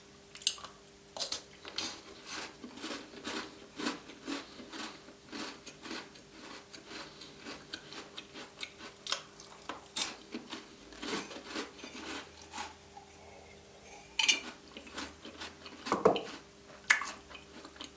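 Close-miked eating sounds: a run of short, crisp clicks and crunches as Tim Tam chocolate biscuits are handled and bitten, with light clinks like a mug or dish being touched, over a faint steady hum.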